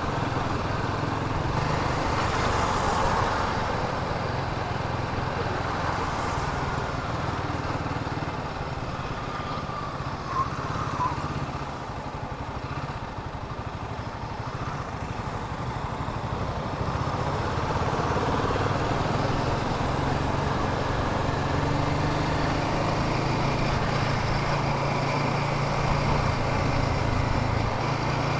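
Royal Enfield Himalayan 450's single-cylinder engine running under way, its note easing off about twelve seconds in and picking up again a few seconds later. A brief sharp sound about ten seconds in.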